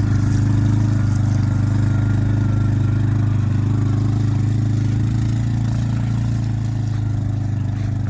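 Russian Mechanics RM 650 quad bike's engine running steadily, a constant low drone that eases off slightly about halfway through.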